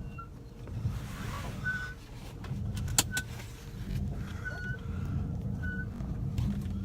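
Ryko Velvet Touch 2000 automatic car wash running, heard from inside the car: a steady low rumble with several short high squeaks and a sharp click about three seconds in.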